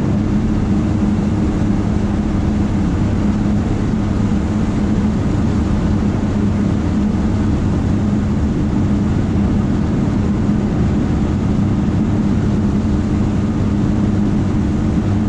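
Chevy C10 pickup's engine and Flowmaster exhaust running at a steady cruise, heard from inside the cab as an even, low drone with road noise underneath.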